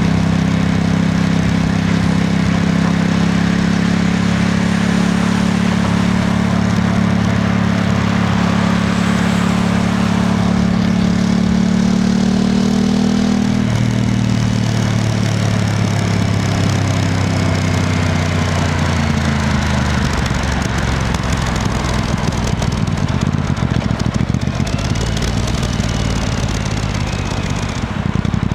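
Aprilia RS660 Extrema's parallel-twin engine running at a steady pitch, then dropping in pitch about halfway through and easing lower for several seconds. In the last part its pitch rises and falls unevenly.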